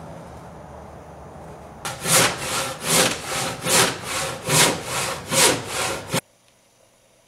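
Handsaw cutting through a block of mesquite wood, splitting it in half: a run of about ten steady back-and-forth strokes, a little over two a second, starting about two seconds in and stopping abruptly about six seconds in.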